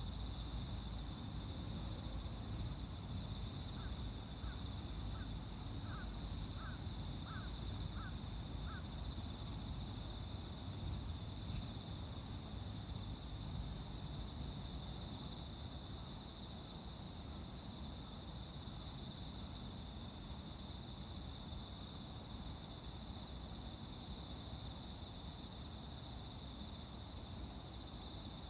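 Insects chirring steadily in two high, unbroken tones, with a crow cawing about seven times in quick, even succession between about four and nine seconds in.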